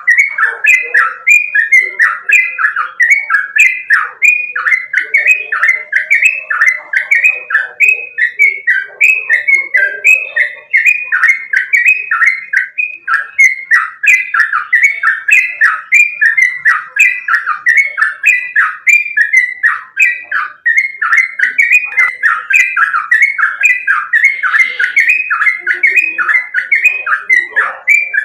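Yellow-vented bulbul (trucukan) singing, a fast, unbroken run of short sliding whistled notes, about three a second: the rapid continuous 'ropel' song.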